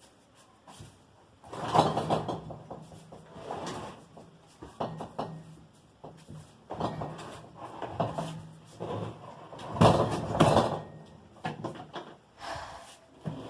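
An irregular series of knocks, bangs and clatters, as of hard objects being handled and set down. The loudest come about two seconds in and again around ten seconds in.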